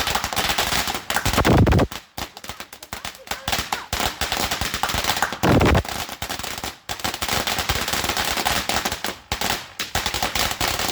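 Fireworks going off in a rapid, continuous run of crackling bangs, with two louder, deeper bursts about a second and a half and five and a half seconds in.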